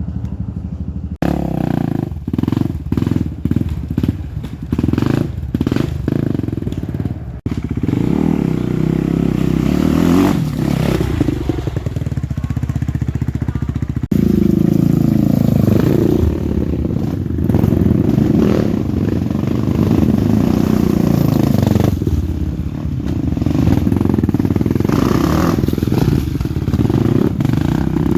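Off-road motorcycle engines revving repeatedly, their pitch rising and falling, with the sound changing abruptly a few times.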